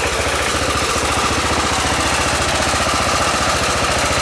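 Engine of a small homebuilt tractor running steadily as it drives, with a rapid, even beat of firing pulses.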